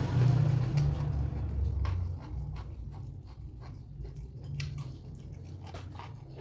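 Close-miked chewing of food: a run of small wet mouth clicks and crunches, louder and denser for the first two seconds, then sparser.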